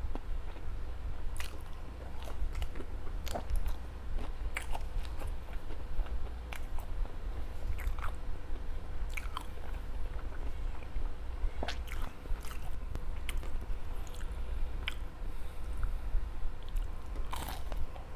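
Close-up chewing, with irregular crisp bites and crunches, of homemade veggie balls and fish balls, over a steady low hum.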